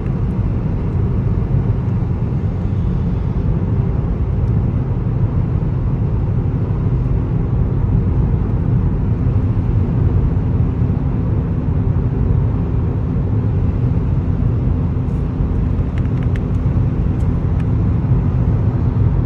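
Exhaust drone heard inside the car's cabin at steady highway cruise, from a TCR muffler fed by an aftermarket downpipe, mixed with road and tyre noise: a steady low hum with a held tone.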